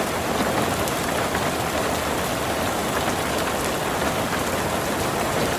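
Steady heavy rain, falling evenly without let-up, with faint scattered drop ticks.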